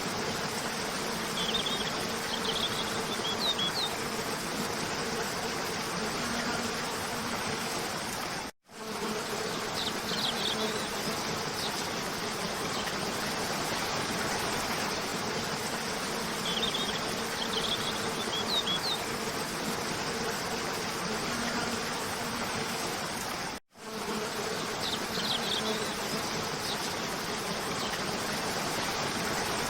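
Cascading waterfall rushing steadily, with a low steady hum under it and spring birds chirping in short high clusters every several seconds. The sound cuts out for an instant twice.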